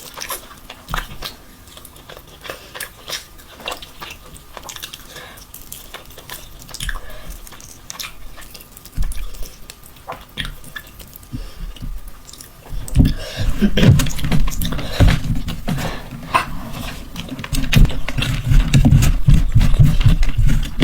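A person eating spicy mutton mandi close to the microphone: wet chewing and biting with many small mouth clicks, growing louder and heavier about two-thirds of the way in.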